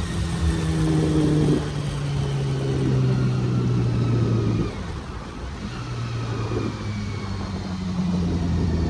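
Honda CBR400RR's inline-four engine running as the bike rides in slowly, its note stepping up and down with the throttle and falling back about four and a half seconds in before picking up again near the end.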